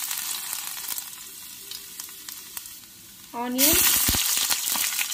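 Chopped garlic sizzling in hot oil in a steel frying pan. A little over three seconds in, onion chunks drop into the pan with a few soft thuds, and the sizzle gets louder.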